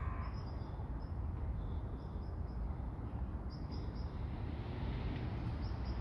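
Small birds chirping: short, high notes in quick clusters of two or three, repeated every second or so, over a steady low rumble.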